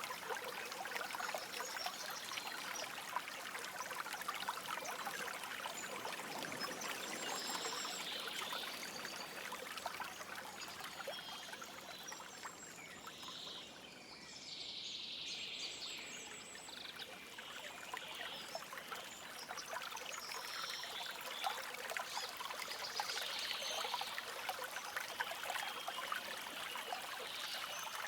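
Small forest stream flowing and trickling steadily, with birds calling now and then over the water. The water sound thins briefly about halfway through.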